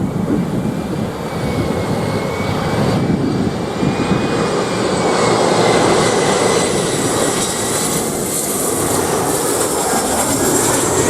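Jet airliner flying in low on its landing approach, its engines giving a loud rumble under a high whine that grows stronger near the end.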